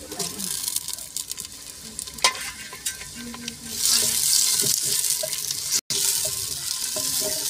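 Chopped tomatoes and green chillies going into hot oil and fried onions in a clay pot, sizzling as a wooden spoon stirs and knocks against the pot. The sizzling swells loud about halfway through and breaks off for an instant near the end.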